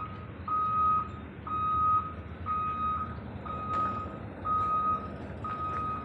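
Excavator's travel alarm beeping about once a second, each beep half a second long and steady in pitch, over the low running of the diesel engine as the machine moves.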